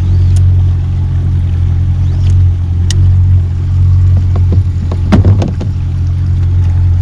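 Boat's outboard motor running steadily at trolling speed, a loud low hum. A few short knocks come about five seconds in.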